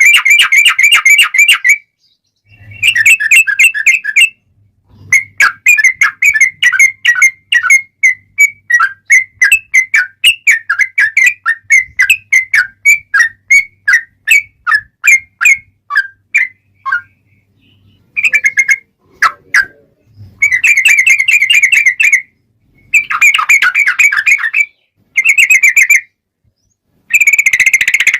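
Sooty-headed bulbul (trucukan) singing loud, rapid chattering phrases, including one long run of quick repeated notes lasting about twelve seconds, the long 'ropel' rolls of a bird in fighting mood. The phrases are broken by short silences.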